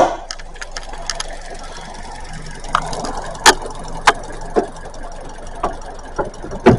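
Hood of a 2025 Kia K4 being released and lifted: a loud clunk at the start, then a string of irregular clicks and knocks from the latch, hood and prop rod, with another loud clunk near the end. Under them runs the steady hum of its 2.0-litre Smartstream engine idling.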